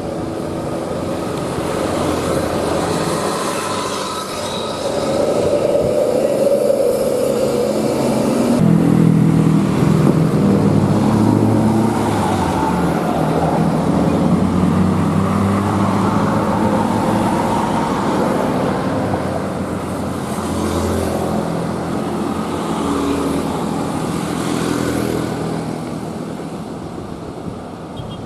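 Truck diesel engine running as it passes, growing louder about nine seconds in and fading near the end.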